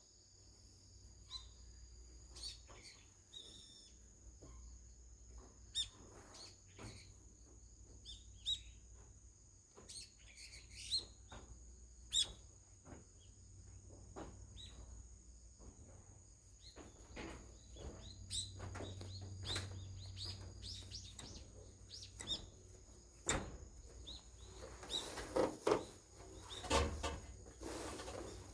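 Birds chirping on and off, mixed with scattered sharp clicks, and a louder burst of noise and clicks near the end.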